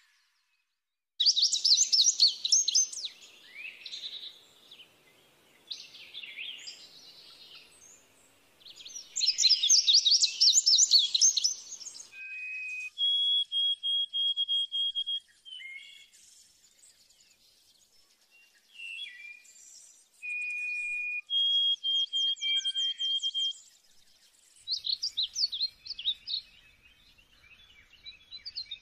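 Songbirds singing: spells of rapid chirping trills starting about a second in, with clear steady whistled notes held for a second or two around the middle.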